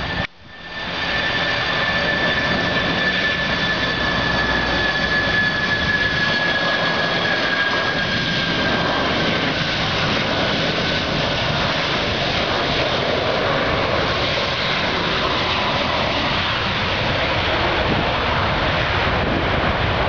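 Boeing 747 jet engines running loudly during landing, a steady roar with whining tones that slowly fall in pitch over the first several seconds.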